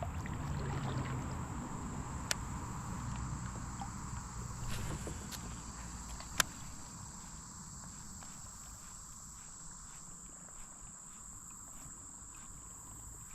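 Quiet riverside ambience: a steady, high-pitched insect drone over a faint wash of noise that fades over the first several seconds, with two sharp clicks, about two and six seconds in.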